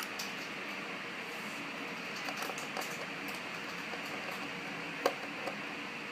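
Steady background hiss with a few light clicks and taps, the sharpest about five seconds in, as small parts are handled while a projector is being taken apart.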